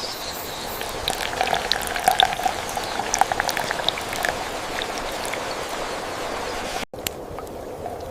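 Water bubbling at a boil, a steady hiss with many small irregular pops; it drops out for an instant near the end.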